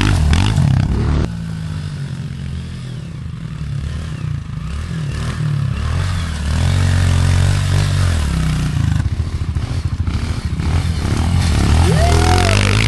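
Pit bike engine revving up and down as it is ridden round a dirt track. It is loud at first, drops off suddenly about a second in, then builds again.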